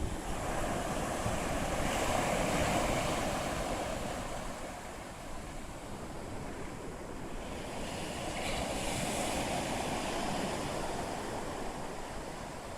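Sea waves washing onto a shore, swelling about two seconds in and again around nine seconds, with wind rumbling on the microphone.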